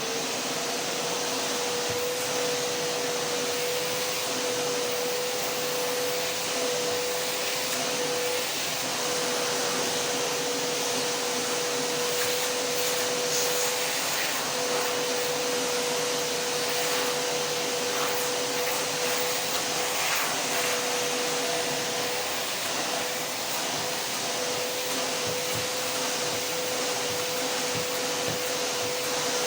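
Vacuum cleaner running steadily: a dense, even hiss with a constant mid-pitched whine that cuts out briefly a few times.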